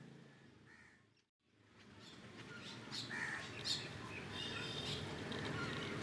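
Birds calling: short chirps and calls. The sound fades almost to nothing just over a second in, and the calls begin about two and a half seconds in.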